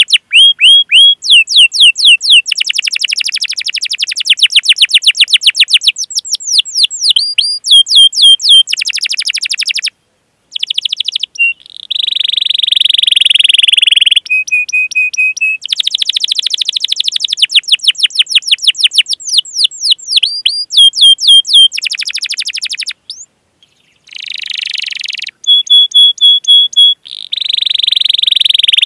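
Domestic canary singing a long, continuous song: fast rolling trills, buzzy rolls and clear chirping 'cuit cuit' notes in quick succession, broken by two brief pauses.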